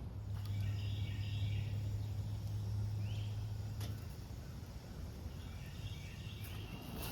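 Outdoor ambience: a steady low hum through the first four seconds, with short bird chirps a few times.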